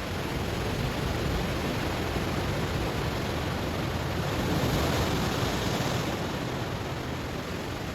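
Ocean waves breaking on a stony shore: a steady wash of surf that swells to a peak about halfway through, then eases off.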